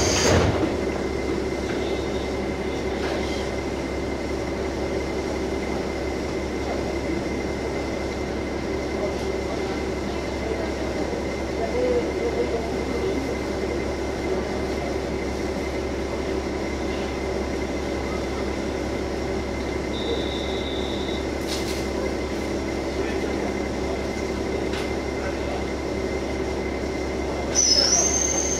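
KiHa 47 diesel railcar running, heard from inside the car: steady engine and wheel-on-rail noise with a constant hum. Briefly about two-thirds of the way in, and again from near the end, the wheels squeal with a high steady tone.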